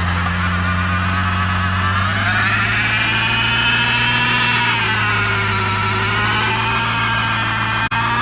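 Car engine running at a steady speed: a constant deep hum with a slowly wavering higher whine above it.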